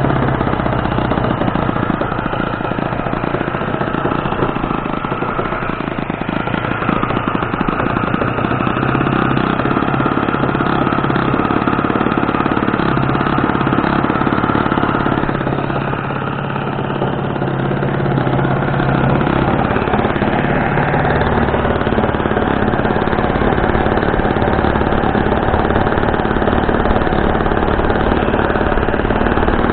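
Saito .40 four-stroke glow engine on a Sig Four Star 40 model airplane, running steadily just after starting. Its level dips briefly about halfway through, then comes back up.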